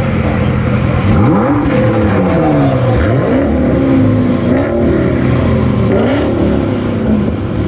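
Car engine revved several times over a steady idle, its pitch climbing and falling in repeated sweeps.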